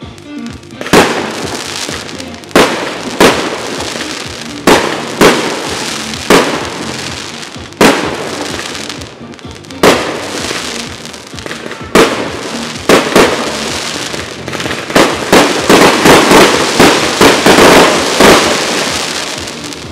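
Aerial firework shells bursting one after another with sharp bangs a second or two apart, each trailing into crackling. Near the end they quicken into a rapid volley of overlapping bursts.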